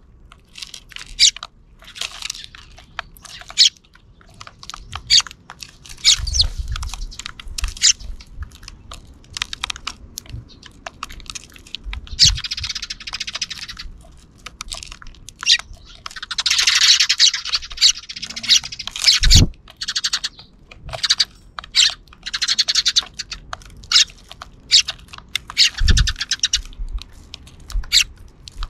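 Sparrows chirping in a flock: many short, overlapping chirps that come in busier clusters, with a few dull low thumps in between.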